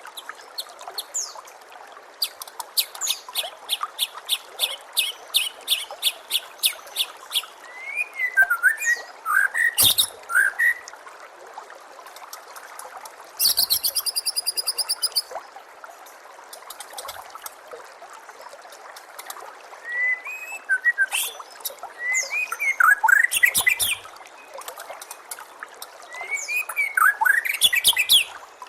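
White-rumped shama (murai batu) song: a long run of quick repeated sharp notes, then sweeping whistled phrases, a fast buzzy rattle, and more whistles near the end. A steady trickle of running water plays underneath.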